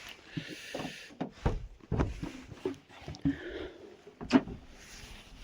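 A string of knocks and clunks with rustling between them, from handling around the old Bedford KB pickup's cab, like its door being worked and someone moving into the cab.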